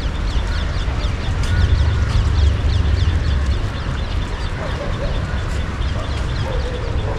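Many birds chirping rapidly over a steady low rumble.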